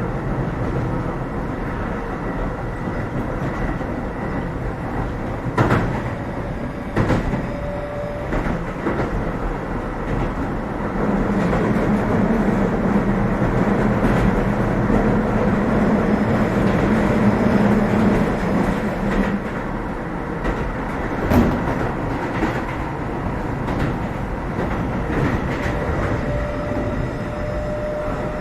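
Running noise inside a Keio 7000 series train at speed: a steady rumble of wheels on rail, with a few sharp knocks from the track. A deeper hum swells for several seconds in the middle, then fades.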